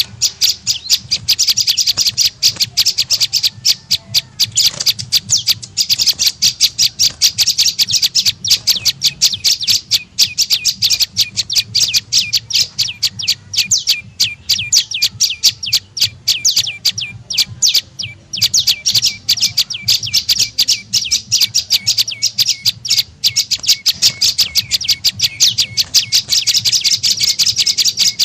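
Lure call of a prenjak lumut, a small songbird: a fast, unbroken string of sharp high chirps, several a second, that falters briefly about two-thirds of the way through. A faint low hum runs underneath.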